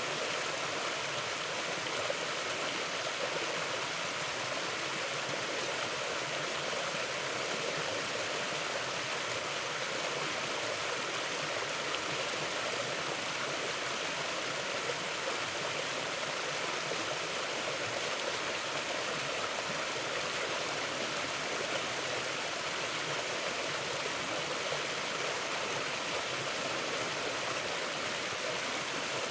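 Mountain river flowing: a steady, even rush of water with no breaks or separate events.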